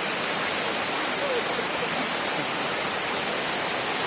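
Mountain stream running over its rocky bed: a steady, even rush of water.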